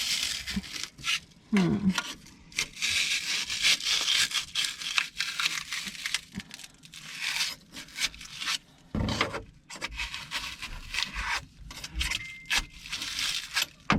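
Old spray foam being cut and scraped away by hand: repeated rough scraping and tearing strokes, starting and stopping in quick runs.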